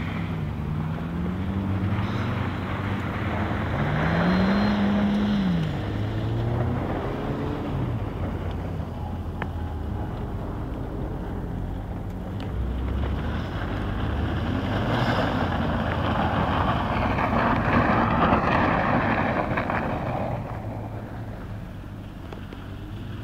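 Audi A3 turbo quattro's engine revving while the car slides on snow, its pitch rising and falling several times over the first few seconds. It grows louder and rougher past the middle, then drops off near the end.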